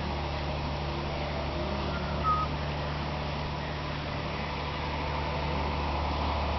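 Biogas-fuelled engine running steadily, a constant low hum. A brief high chirp is heard about two seconds in.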